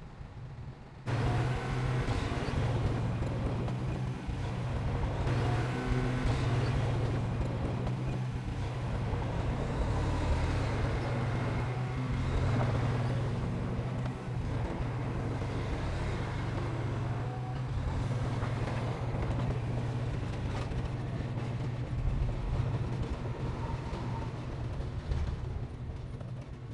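Heavy diesel engine of earthmoving machinery running steadily under load, coming in abruptly about a second in.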